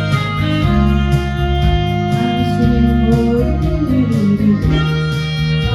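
Instrumental trot backing track playing: a guitar melody over bass and a steady beat.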